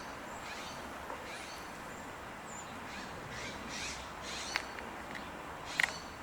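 Birds calling in a series of short, high chirps over a steady background hiss, with a sharp click about four and a half seconds in and another near the end.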